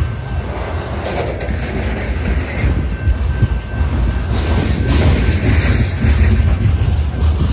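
BNSF grain train of covered hopper cars rolling past close by: a steady low rumble of steel wheels on rail, with a rapid run of clicks and clacks as the wheel trucks pass.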